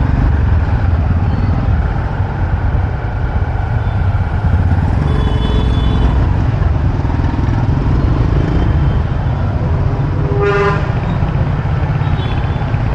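Motorcycle riding through city traffic: a steady engine and wind rumble, with vehicle horns honking, a short toot about five seconds in and a louder horn blast about ten and a half seconds in.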